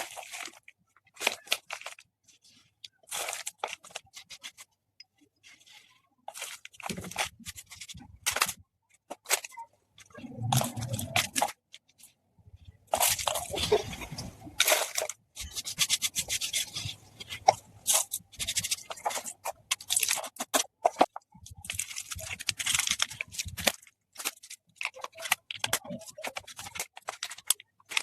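Slate pencil sticks being crunched and crumbled into gritty powder: spells of dry crackling and grinding, separated by short pauses, with the longest and densest crunching through the middle of the stretch.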